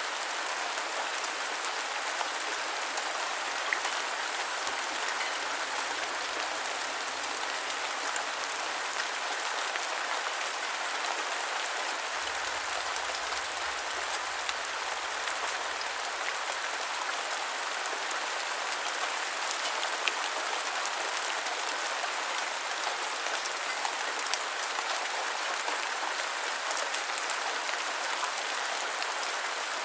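Steady rain falling, an even hiss with scattered faint drop ticks throughout.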